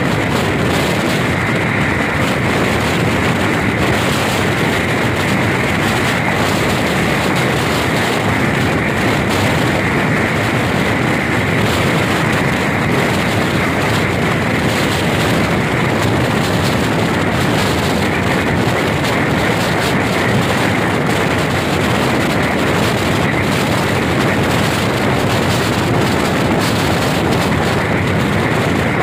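Pakistan Railways express passenger train running at speed, heard from an open coach window: a loud, steady rush of wheels on rails and passing air, with a constant higher hum over it.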